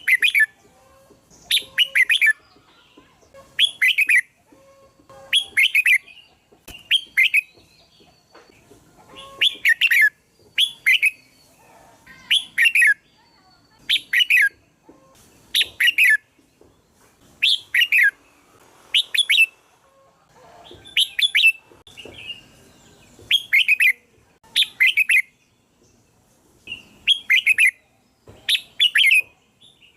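Red-whiskered bulbul calling: short, bright chirpy phrases, often in quick pairs, repeated every second or two.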